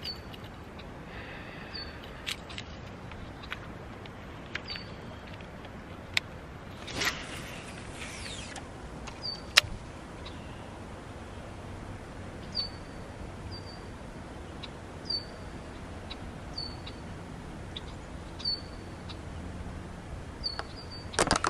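A bird repeats a short, high chirp every second or two over steady outdoor background noise. A few light clicks and a brief rushing noise come about seven seconds in, and a sudden louder burst comes at the very end.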